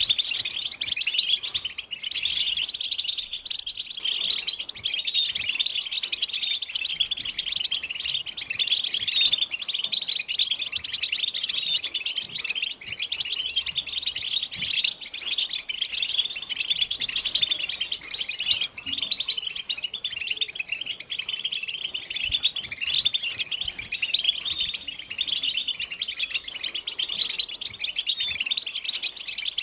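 Several European goldfinches chattering and singing together, a dense, unbroken stream of rapid high-pitched twittering notes. It is a group chattering of the kind played as a lure to set male goldfinches singing.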